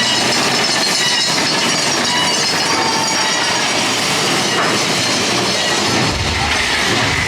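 Big Thunder Mountain Railroad mine-train roller coaster running along its track, heard from a seat on the train: a steady loud noise of the cars and wheels on the rails, with a deeper rumble joining about six seconds in.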